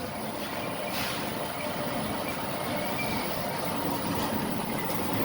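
Passenger train running, heard from inside the carriage: a steady rumble of wheels and running noise that slowly grows louder, with a faint thin whine held over it and a light click about a second in.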